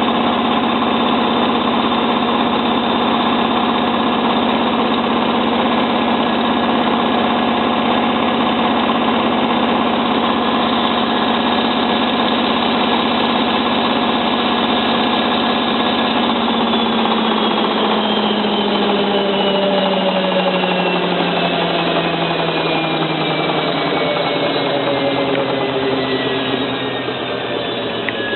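Hotpoint 9534A washing machine spinning its drum at high speed with a steady motor whine, then winding down from a little over halfway, every tone of the motor falling steadily in pitch as the spin slows.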